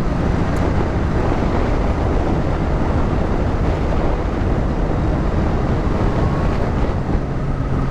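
Kawasaki Ninja H2 motorcycle accelerating hard at speed, its supercharged inline-four engine running under a dense, steady rush of wind noise on the helmet microphone.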